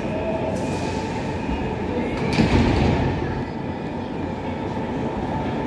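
Train moving through a station, a steady running noise with one brief louder burst of noise about two and a half seconds in.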